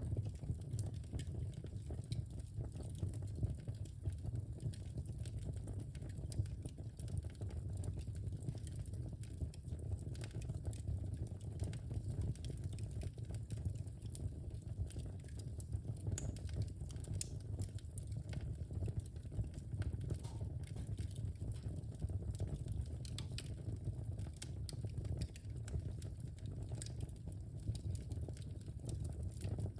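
Wood fire burning in a fireplace, a steady low rumble of flame with frequent sharp crackles and pops from the logs.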